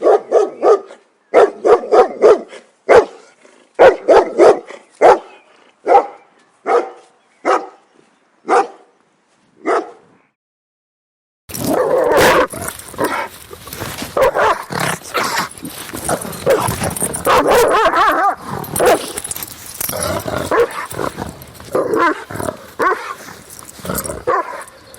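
Big dogs barking loudly. The first part is a run of separate deep barks, slowing and thinning out. After a second of silence comes a second recording of dense, nearly continuous barking.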